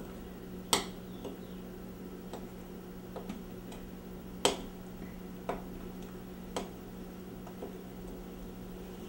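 A spoon knocking against a mixing bowl at uneven intervals, about once a second, while stiff butter is stirred into cake batter by hand. A steady low hum runs underneath.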